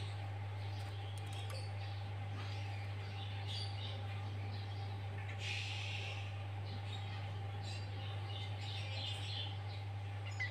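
Sooty-headed bulbul calls and chirps, scattered and fairly faint, over a steady low electrical hum that is the loudest sound throughout, with a fainter steady tone above it.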